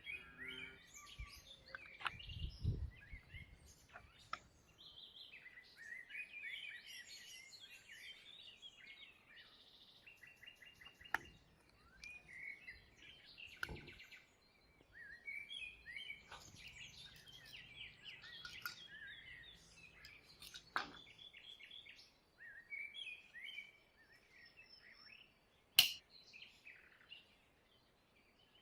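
Birds singing and chirping, with a few sharp clicks and taps scattered through, the loudest near the end.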